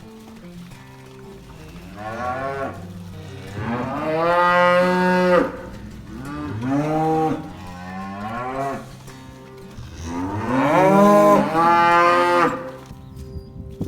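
Simmental cows mooing: about five long calls, each rising then falling in pitch, the loudest about four seconds in and again near the end.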